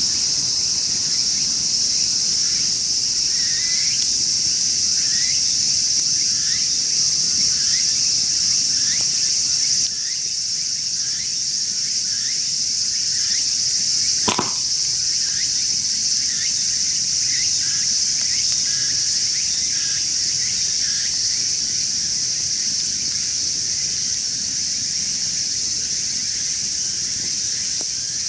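A steady, high-pitched chorus of summer insects, with a run of short rising chirps repeating through the first two-thirds and one sharp pop about halfway through.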